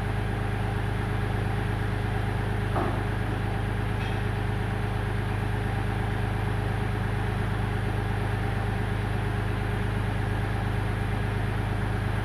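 Kioti compact tractor's diesel engine running steadily at a constant speed.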